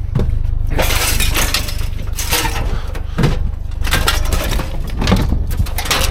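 Scrap metal and appliance parts clattering and crashing, with many sharp knocks and breaking, glassy sounds, as the load is shoved around or broken down. A steady low rumble runs underneath.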